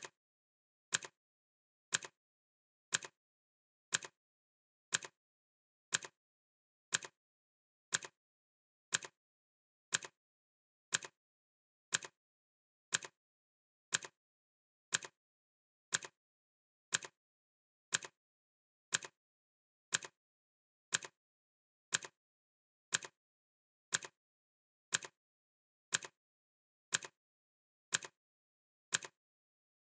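Clock ticking sound effect: one sharp tick every second, with silence between ticks.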